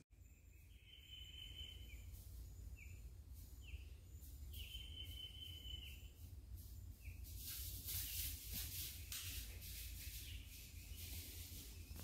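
Woodland birds singing: a few clear whistled phrases and short sliding notes. In the second half comes a run of faint crackling, over a steady low rumble.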